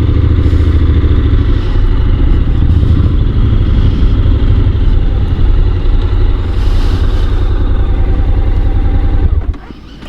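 Honda NC750 motorcycle on the move: the engine running with heavy wind rush on the microphone. The sound drops away sharply about nine and a half seconds in.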